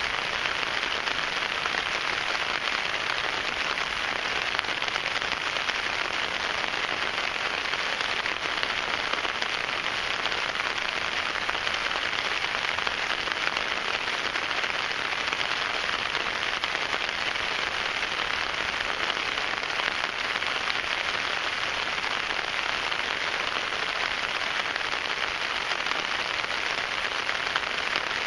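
Steady rain falling on an REI Kingdom 8 tent, with dense fine drops pattering on the tent fabric, heard from inside the tent.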